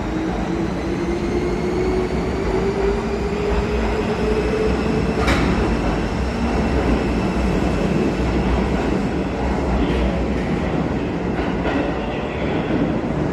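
Train running, with a whine that rises in pitch over the first five seconds as it gathers speed. A sharp click comes about five seconds in, with a few fainter clicks later.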